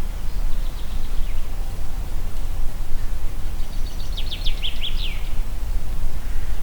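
Wind blowing through a forest, heard mostly as a steady low rumble with a rustling hiss. A small songbird sings a faint short phrase about a second in, then a louder, quick twittering trill of rapid notes a little past halfway.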